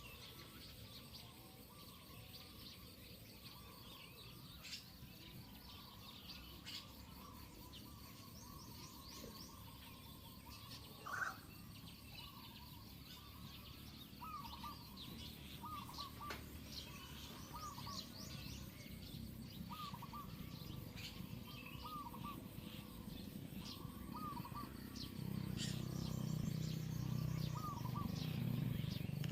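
Several birds chirping and calling in short, repeated notes, some lower and hooked, others higher and thinner. A louder low rumble comes in near the end.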